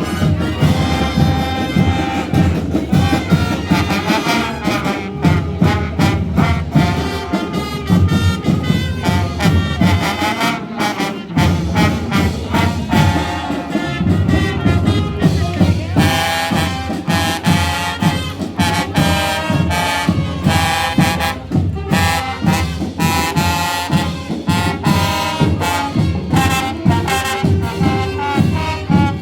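Marching band playing, brass instruments over a steady drum beat.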